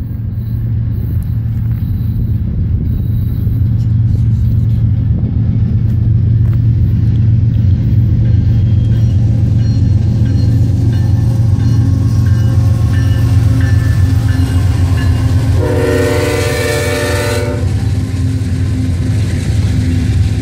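CSX freight train's diesel locomotives approaching and passing with a steady low rumble. The locomotive horn blows one chord for nearly two seconds about three-quarters of the way through. Covered hopper cars are rolling by at the end.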